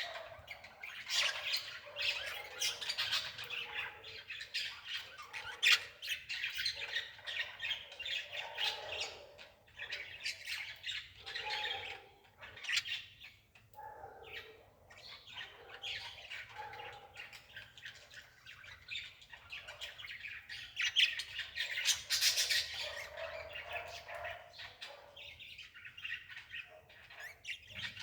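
Birds chirping and squawking over and over, with many short sharp calls.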